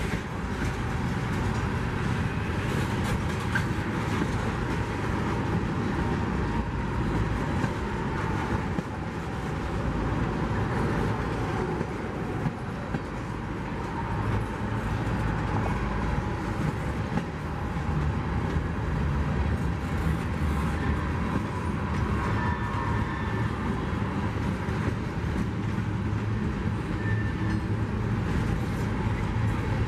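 Freight train rolling steadily past at close range, tank cars and then boxcars: a continuous rumble and clatter of steel wheels on rail, with now and then a faint brief squeal.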